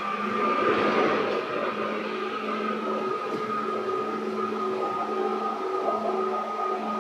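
Cabin sound of a JR East 205 series electric train: a steady hum with a higher steady tone over a low rumble, with no rise or fall in pitch.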